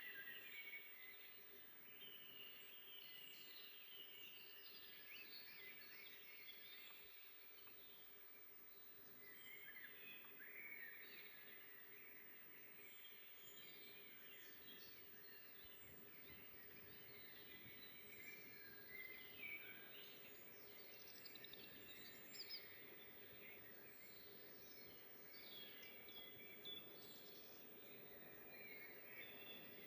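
Faint dawn-chorus-like mix of many songbirds chirping and trilling at once, over a soft forest background hiss, with a faint steady low hum running underneath.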